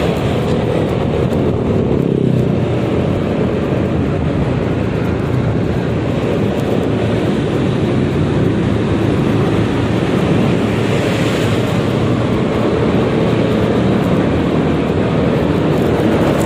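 Yamaha XMAX 300 scooter's single-cylinder engine running at riding speed, under steady wind rushing over the rider's microphone.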